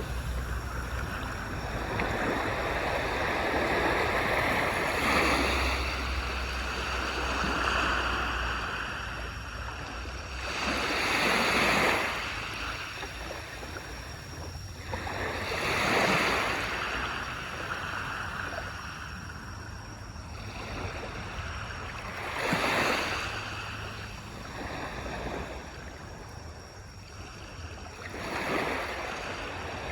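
Waves washing onto a beach: the surf hiss swells and fades in slow surges, about six waves in half a minute.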